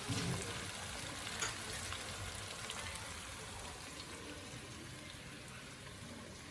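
Chicken curry sizzling in the pan just after water has been poured in, a steady hiss with faint ticks that slowly dies down.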